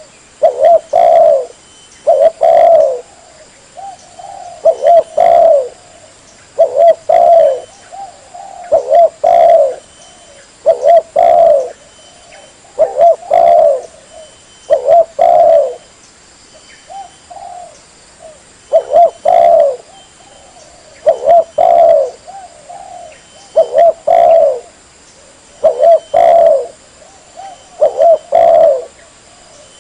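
Spotted dove (tekukur) cooing over and over, a lure-call recording: a loud phrase of a few coos about every two seconds, with fainter short coos in some of the gaps.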